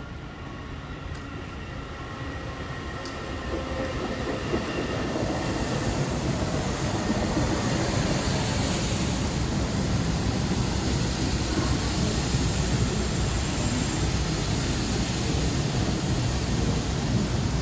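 Long Island Rail Road M3 electric multiple-unit train passing through a station. Its rumble and wheel noise grow louder over the first six seconds or so, then run steadily.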